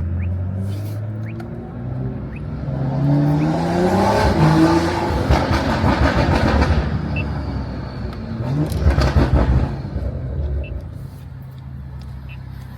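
BMW turbocharged straight-six engine accelerating hard: the pitch climbs through the gears, then a second, shorter rev about nine seconds in.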